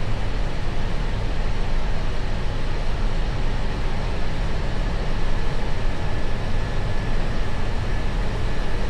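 Steady roar inside the flight deck of an Airbus A321 at takeoff thrust: rumble and rushing noise from its IAE V2500 engines and the airflow, with no distinct events.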